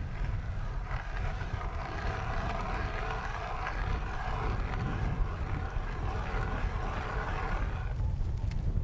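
Blizzard wind buffeting the microphone, with a steady rushing noise over the rumble that stops about eight seconds in.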